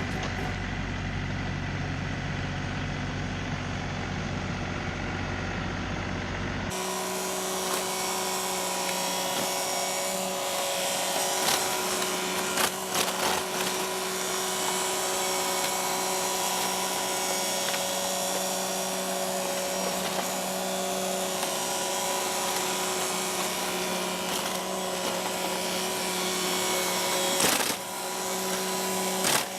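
John Deere 3038E compact tractor running steadily with a constant whining drone, starting abruptly about seven seconds in after a duller, different sound. A few short clicks and knocks come through near the middle and near the end.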